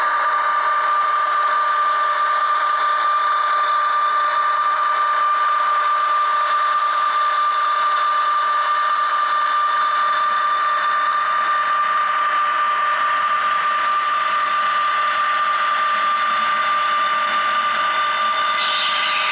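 ESU LokSound decoder in an HO-scale EF210 model playing the electric locomotive's inverter whine, a steady two-tone whine at constant speed over a background hiss, through the model's small speaker. Near the end a higher hiss comes in suddenly.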